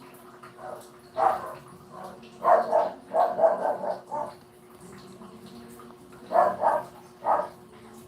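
A dog barking in short bouts: a bark about a second in, a quick run of barks around the middle, and a few more near the end, over a faint steady hum.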